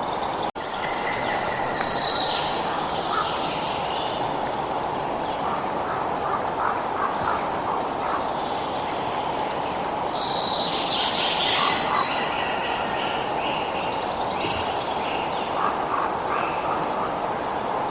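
Birds calling and chirping over a steady rush of flowing water, with a burst of falling calls about two seconds in and a busier stretch around ten to twelve seconds. The sound drops out for a split second about half a second in.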